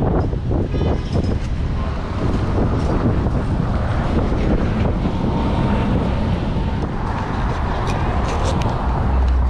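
Wind buffeting the microphone, with road and traffic noise from riding an electric moped: a steady low rumble.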